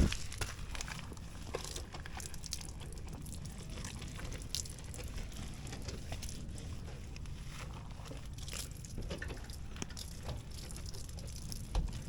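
Faint wet handling sounds of a car being hand-washed: scattered light rubbing, clicks and drips over a steady low rumble, with a thump at the start and another near the end.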